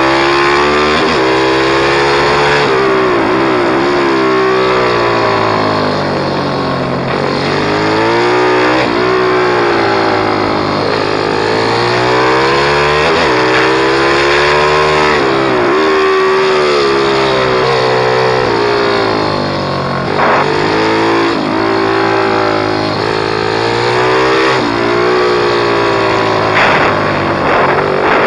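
Pit bike engine running hard, revving up and falling off again every few seconds as it accelerates and backs off, with repeated climbs and drops in pitch.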